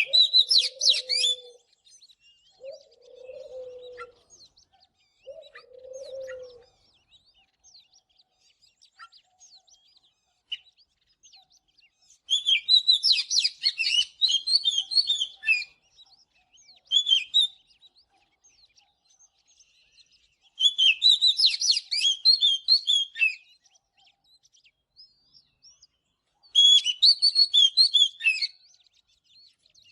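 Oriental magpie-robin singing in bursts of rich, quickly varied whistled phrases, four song bursts separated by pauses of scattered soft notes. Four low cooing notes sound in the first few seconds.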